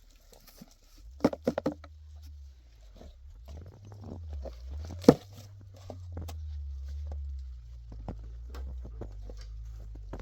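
A low steady rumble with scattered sharp knocks and clicks: a quick run of knocks about a second in and one louder knock about five seconds in.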